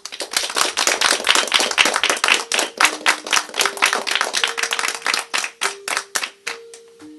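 Audience applauding: dense clapping that starts at once, then thins to a few scattered claps near the end.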